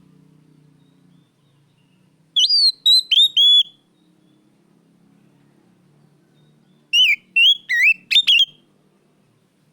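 Oriental magpie-robin (kacer) singing loud, clear whistled notes in two short phrases of four or five notes each, a few seconds apart.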